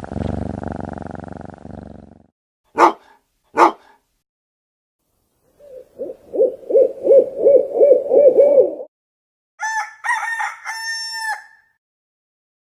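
A string of separate animal-call sound effects. A low, dense animal sound fades out in the first two seconds, two short sharp calls follow, then a quick run of about eight low pulsed calls. Near the end comes a higher, drawn-out crowing call like a rooster's.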